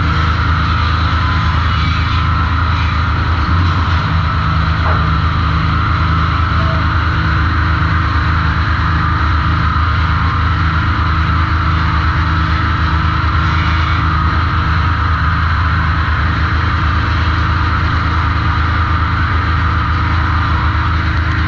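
Sawmill machinery running steadily: a constant, loud low machine drone with a steady rushing noise above it.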